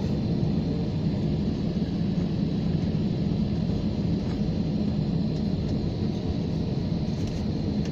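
Airplane taking off: a steady low rumble of jet engines and airframe noise, with no change in pitch or level.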